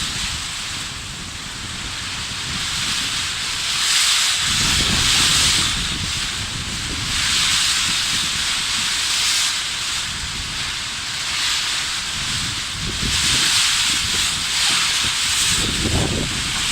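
Tropical storm wind gusting, a loud rushing hiss that swells and eases in surges every few seconds, with a low rumble of wind buffeting the microphone.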